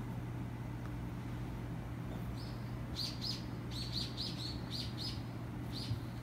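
A run of short, high chirps like a small bird's, about three a second, starting a little over two seconds in and stopping near the end, over a steady low hum.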